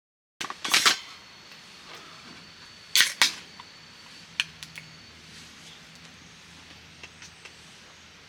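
Sharp clicks and knocks: a quick cluster about half a second in, a loud double knock about three seconds in, then a few lighter ticks, over a quiet steady background hiss.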